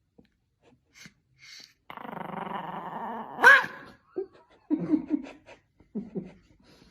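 Small dog, a Pomeranian, growling in a rough grumble for about a second and a half, then giving one sharp bark, then several short low grumbles, as if talking back.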